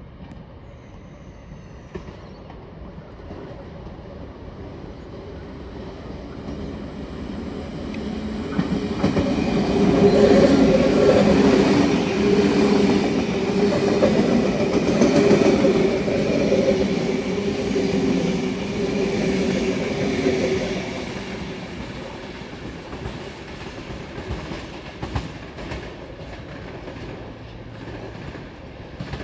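NSW TrainLink V-set double-deck electric intercity train passing through the station without stopping. It builds over several seconds, is loudest from about ten to twenty seconds in, then fades away.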